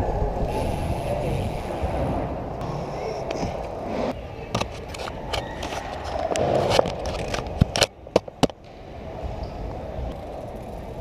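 BMX bike rolling over skatepark concrete: steady tyre noise, then scattered clicks and a cluster of sharp knocks about eight seconds in.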